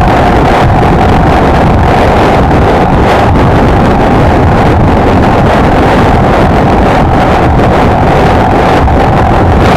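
Wind rushing over the microphone at riding speed, over the steady drone of a Honda XLR125R's single-cylinder four-stroke engine holding a constant cruise. It is loud and unchanging, with a steady mid-pitched tone running through it.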